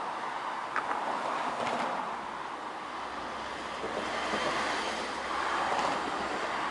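A train running along the line: a steady rush of wheel and rail noise with a few brief squeals, and a low hum coming in about three seconds in.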